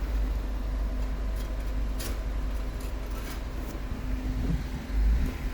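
A car engine running steadily at idle, a low rumble with a faint steady hum and a few light clicks.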